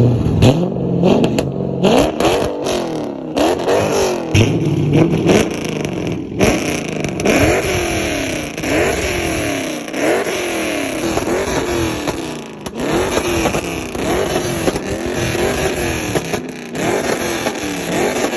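Car engine revving hard over and over, its pitch climbing and dropping about once a second.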